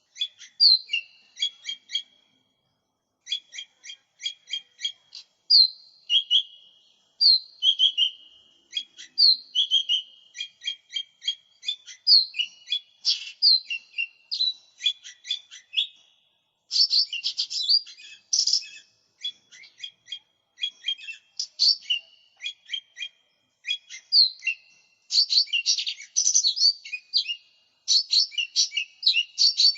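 Lesser green leafbird (cucak ijo mini) singing without pause: phrases of rapid high chirps mixed with short whistled notes, with brief gaps between phrases. The song grows denser and louder about halfway through and again near the end.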